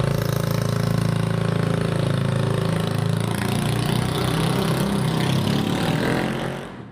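Honda Click scooter's single-cylinder four-stroke engine running steadily through a KOU open exhaust pipe, fading out near the end.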